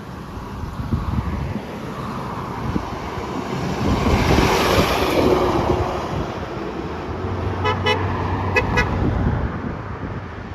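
A truck driving past, its road and engine noise swelling to a peak about halfway through. After that it sounds its horn in two quick pairs of short toots.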